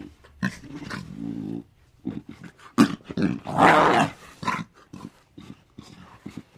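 An animal calling in a series of short, sharp calls, with a held pitched call about a second in and a louder, rougher call about three and a half seconds in.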